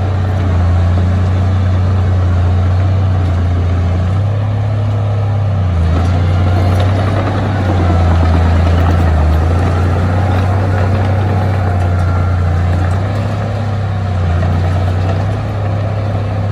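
Heavy diesel engine of earthmoving machinery running steadily under varying load, with a deep drone that shifts slightly in pitch and strength as it works.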